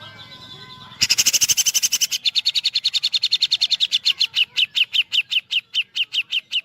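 A cucak jenggot (grey-cheeked bulbul) gives a woodpecker-like rattle, the 'tembakan pelatuk' song. It is a long run of sharp, high, falling notes that starts suddenly about a second in, very fast at first, then slows to about six notes a second. Before it there is a faint thin whistle.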